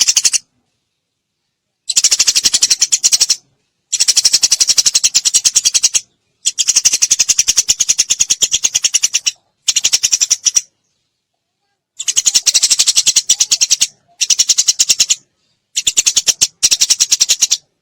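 Eurasian tree sparrow chirping in very rapid rattling runs, the 'tembakan' volleys, each run lasting one to three seconds with short gaps of dead silence between them.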